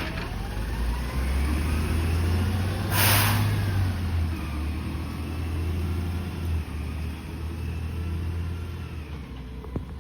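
Garbage truck engine running with a heavy low drone that drops off about six and a half seconds in, with a short sharp hiss of air about three seconds in.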